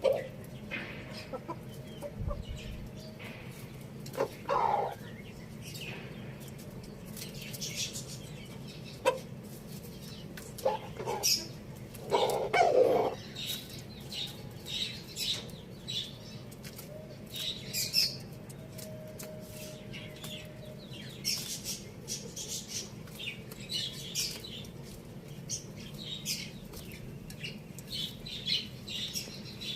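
Chickens clucking, with louder calls about four and twelve seconds in, among many short high chirps and over a steady low hum.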